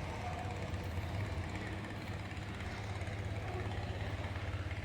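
Kawasaki motorcycle engine idling, a steady low hum with a rapid even pulse.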